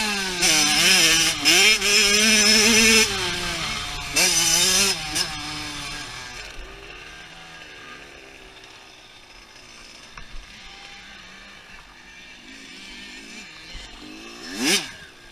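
Two-stroke dirt bike engine revving up and down close by, then fading away as the bike rides off. Near the end a brief loud burst of engine sound sweeps by.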